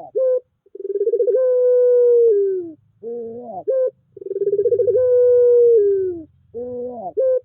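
Puter pelung dove cooing: two long drawn-out coos, each opening with a quick stutter, then held and dropping in pitch at the end, each followed by a short rising note.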